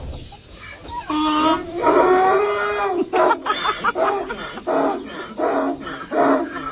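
A person imitating an animal call with their voice: a long held call, then a quick run of short repeated calls at about three a second.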